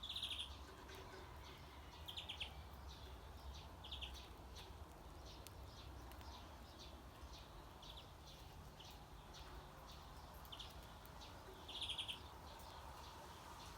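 Birds giving short, buzzy chattering calls every couple of seconds, loudest at the start and near the end, with fainter single chips in between, over a faint low rumble.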